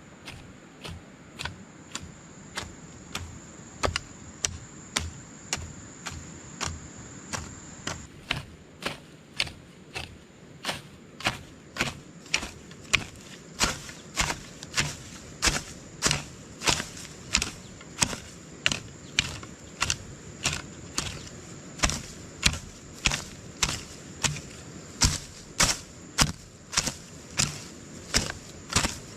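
Rhythmic sharp strikes of a hand tool at work, about two a second, growing louder about halfway through, with a steady high trill of insects behind them.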